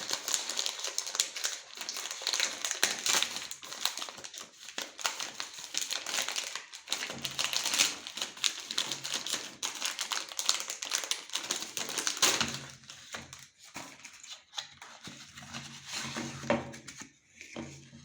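Meat grinder working mini cakes through, a dense, continuous crackling and clicking with a faint low hum coming and going from midway, thinning out near the end.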